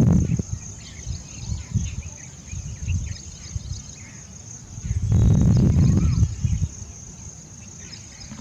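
Steady high-pitched insect drone, with scattered short bird chirps over it. Two stretches of low rumble, at the start and about five to six seconds in, are the loudest sounds.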